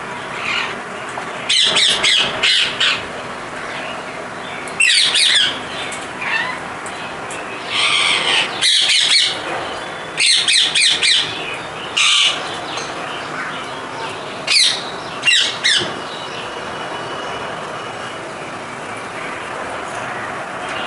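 Parrots squawking in short, harsh bursts that come in clusters, over a steady background hiss. The calls stop for the last few seconds.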